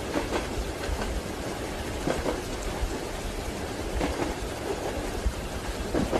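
Steady rain hissing against a train window over the low rumble of a moving train, with its wheels knocking in pairs over the rail joints about every two seconds.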